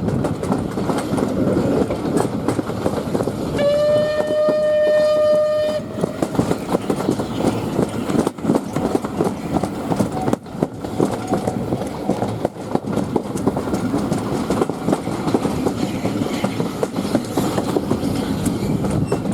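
Steam-hauled train running along the line, with a steady rumble and wheel clatter. About three and a half seconds in, the locomotive, SR no. 34070 Manston, gives one steady whistle blast lasting about two seconds.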